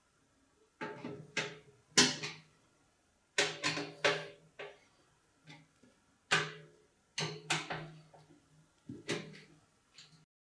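Irregular sharp clicks and knocks of PC case fans being handled and fitted into a computer case, some with a short low ring from the case panel. The sound cuts off abruptly near the end.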